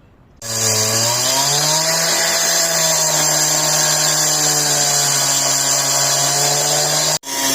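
Power tool cutting out the damaged concrete of the driveway. Its motor runs up about half a second in and holds a steady whine over a hissing grind. The sound cuts out for a moment near the end.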